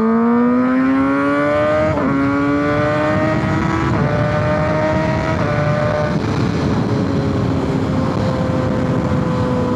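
Kawasaki ZX-6R's inline-four engine accelerating hard through the gears, the revs climbing and dropping back at upshifts about two, four and five and a half seconds in, then holding nearly steady. Wind rushes over the microphone throughout.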